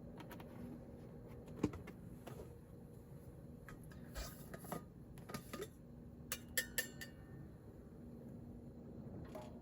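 Light clinks and knocks of dishes and utensils being handled, with a quick cluster of sharp clinks, one ringing briefly, near the seven-second mark. A faint steady hum runs underneath.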